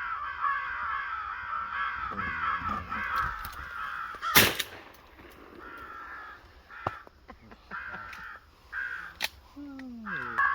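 Crows cawing in a fast, steady run, then a loud shotgun blast about four seconds in. Scattered caws follow, with another sharp crack near the end.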